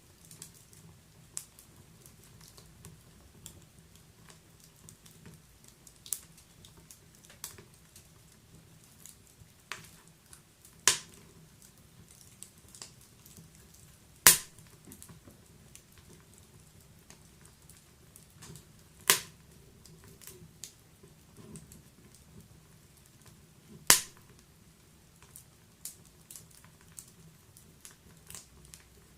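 Fire crackling in a fireplace: scattered small crackles and four loud, sharp pops a few seconds apart.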